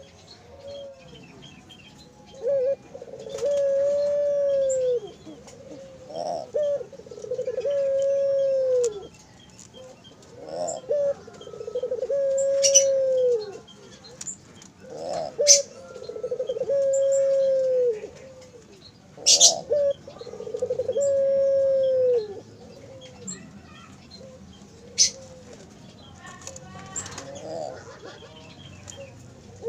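Puter doves (barbary doves) cooing repeatedly: about six long coos, each opening with a short rolling note, held steady and dropping at the end. Faint high chirps from other birds and a few sharp clicks come in between.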